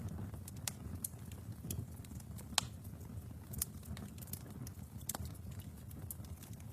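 Wood fire burning in a fireplace: a steady low rumble of flames with irregular sharp crackles and pops, the loudest pop about two and a half seconds in.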